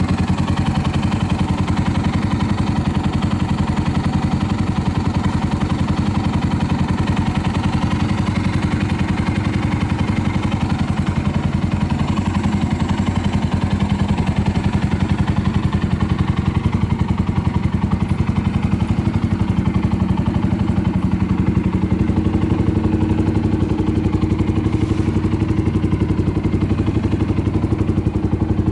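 Suzuki Grasstracker Big Boy's single-cylinder engine idling steadily through an aftermarket Supertrapp 4-inch muffler, an even pulsing beat with no abnormal noises.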